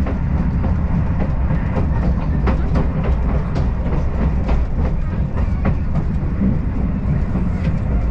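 Afrosiyob Talgo high-speed train running at speed, heard from inside the passenger car: a steady low rumble with irregular light clicks from the wheels on the track.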